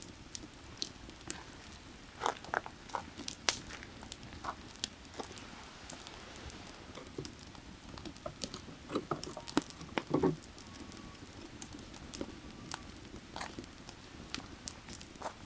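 Burning firewood crackling, with irregular sharp pops that come thickest at about two seconds in and again near ten seconds, over the steady low rush of valley creek water.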